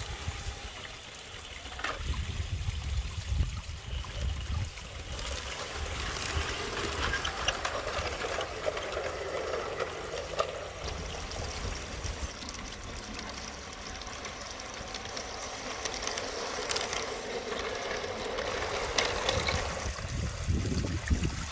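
G scale model train running along the garden railway track, a steady whirring rattle that grows louder and then eases off as it passes, with scattered clicks.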